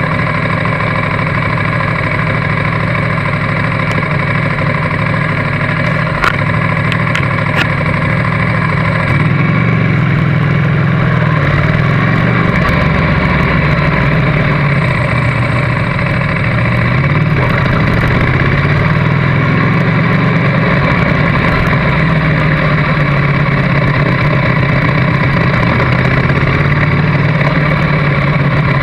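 Motorcycle engine heard from on board, idling steadily, then running at low revs as the bike rolls slowly, its note rising and falling gently from about nine seconds in. A few light clicks come about six to seven seconds in.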